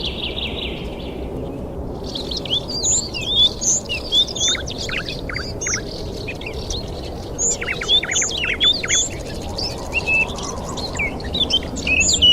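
Several birds chirping and whistling in quick, overlapping calls. A buzzy trill ends under a second in, and the chirping grows dense from about two seconds in, all over a steady low rushing background.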